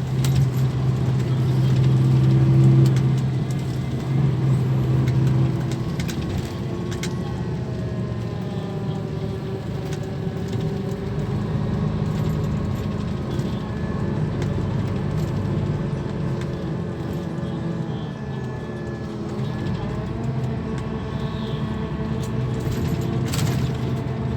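Diesel engine of a Scania K340 coach running under way. A strong steady low note eases off about five seconds in, then the engine's pitch rises and falls slowly, with a few light rattles.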